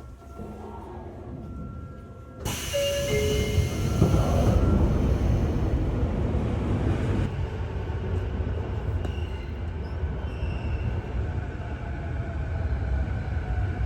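Sotetsu 8000-series electric train heard from inside a motor car at a station stop: quiet at first, then a sudden loud rushing rumble about two seconds in that carries on, with a faint motor whine coming in near the end as the train gets under way.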